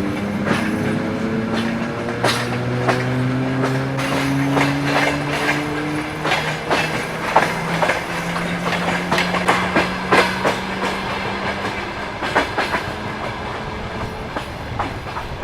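Electric multiple-unit train pulling away: traction motors whining, rising in pitch as it gathers speed, with the wheels clacking over rail joints. The sound slowly fades near the end.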